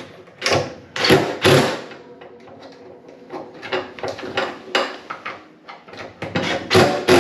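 Irregular clicks, knocks and short scrapes of hand tools and metal hinge hardware being handled, as the hinge screws on a refrigerator are tightened.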